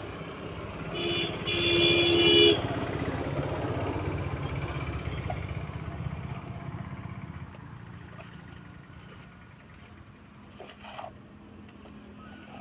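A motor vehicle passing on a nearby road, giving a short two-tone horn toot about a second in, its engine and tyre noise then slowly fading away. A faint knock sounds near the end.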